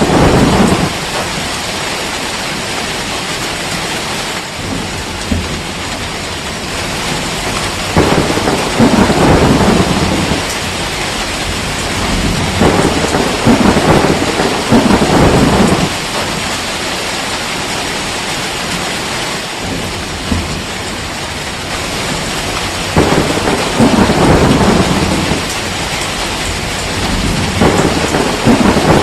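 Steady rain with rolling thunder that swells up and fades away every few seconds.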